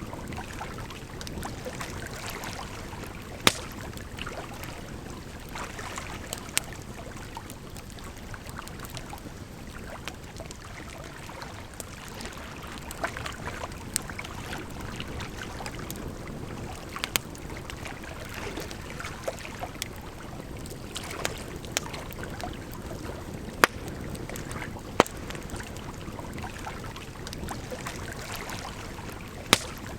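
Campfire crackling, with sharp pops at irregular intervals, over a steady rush of running water.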